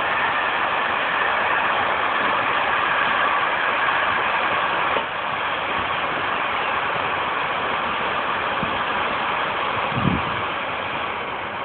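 Freight train running past on a nearby track: a steady, loud rolling rumble of wheels on rail that fades near the end as the train clears. A short low thump about ten seconds in.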